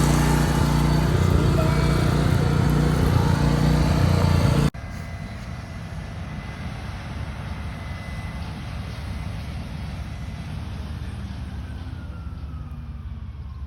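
Large farm harvesting machine's diesel engine running close by with a steady low drone. About five seconds in, the sound cuts abruptly to a quieter, more distant low rumble of machinery.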